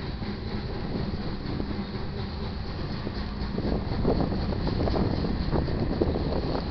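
Freight train rolling past a grade crossing: a steady low rumble, with irregular clanks starting about three and a half seconds in, typical of wheels going over rail joints.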